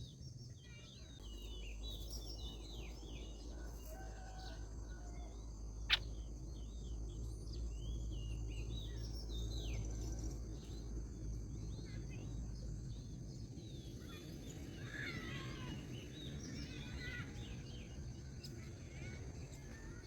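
Small birds chirping at a nest: many short, quick chirps, with a denser run of calls in the later part. A low rumble sits underneath for the first half, and a single sharp click comes about six seconds in.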